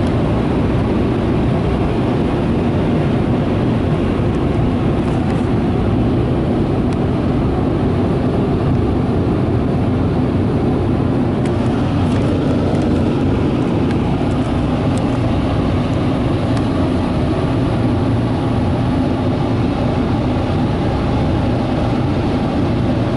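Ryko Softgloss in-bay automatic car wash's air dryer blowers running with a steady, loud rush, heard from inside the car's cabin.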